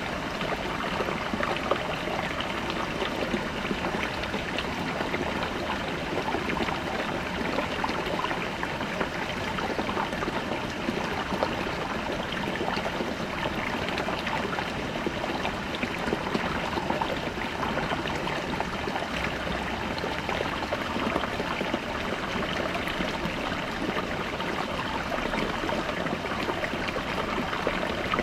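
A small brook babbling over rocks: a steady rush of water with fine splashing and gurgling.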